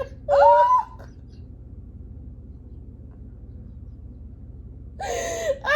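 A woman's voice gives a short high squeal rising in pitch, then about four seconds of low steady hum, then another drawn-out vocal sound near the end.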